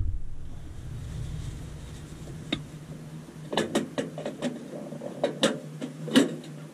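Light knocks and clicks from hands and body bumping around inside a boat's engine compartment while reaching by feel for the dipstick, a handful of them in the second half, over a faint steady low hum.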